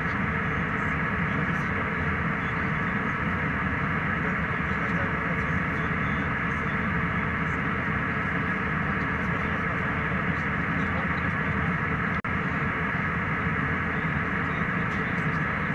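Airliner cabin noise in flight: the steady rush of airflow and engines, unchanging in level, with a momentary dropout about twelve seconds in.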